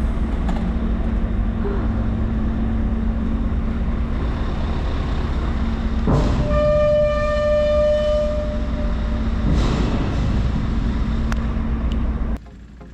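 Large engine droning steadily, with a horn sounding once for about two seconds midway. The drone cuts off shortly before the end.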